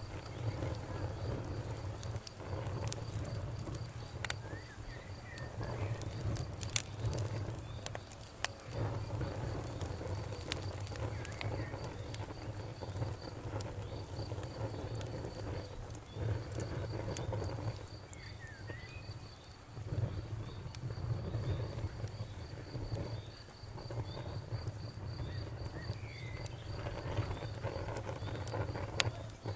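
Campfire burning with a low rumble and scattered sharp crackles and pops, while insects such as crickets keep up a rapid, high-pitched pulsing chirp that pauses now and then.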